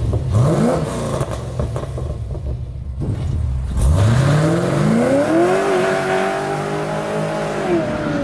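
LS-swapped 6.0 L V8 in a 1990 Chevrolet Caprice revving: a short rising rev near the start, then a longer climb from about four seconds in, held high for about two seconds while the car pulls away spinning its rear tyres, and easing off near the end.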